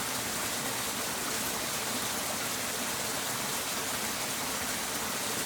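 A steady, even hiss of background noise with no distinct events, much like rain or running water.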